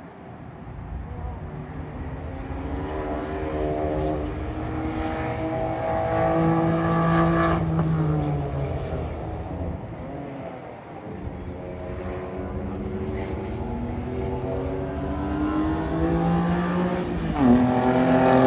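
Car engine accelerating, its pitch climbing for several seconds and then easing off about eight seconds in. It climbs again and drops sharply near the end.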